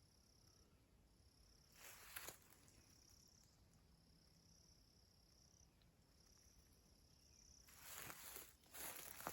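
Faint, high-pitched insect trilling in stretches of about a second with short gaps. Footsteps rustle through leaf litter about two seconds in and again near the end.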